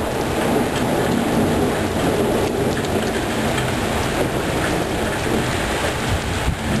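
Thunderstorm: heavy rain falling steadily, with thunder rumbling underneath and no sharp crack.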